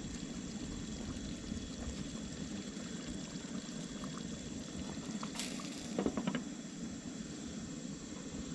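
Pork chops in gravy simmering in a pan on a camp stove, a steady bubbling as the gravy thickens, with a brief knock about six seconds in.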